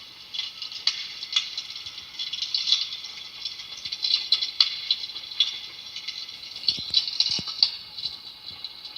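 Crackling fire: a dense run of small pops and snaps over a steady high hiss, with a few louder snaps.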